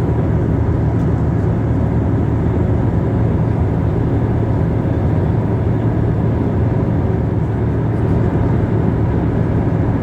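Steady engine and airflow noise inside an airliner cabin in flight: a constant low drone with faint steady hums above it.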